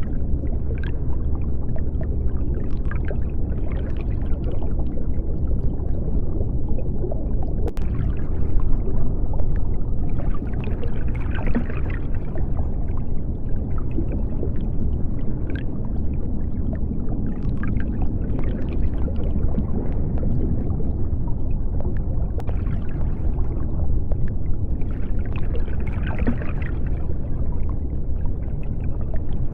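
Underwater ambience of the deep sea: a steady low rumble with scattered bubbling and small clicks. The noise brightens briefly twice, about eleven seconds in and near the end.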